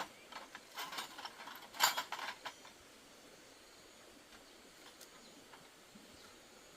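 A quick run of mechanical clicks and rattles over the first two and a half seconds, then only a faint steady background.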